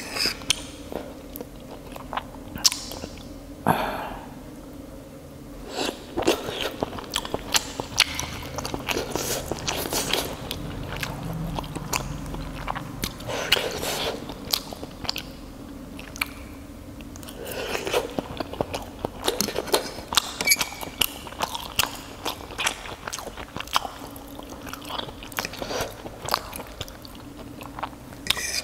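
Close-miked chewing of fried crab sticks in sauce: steady, irregular wet mouth clicks and lip smacks, with a few louder, fuller chews and swallows spread through.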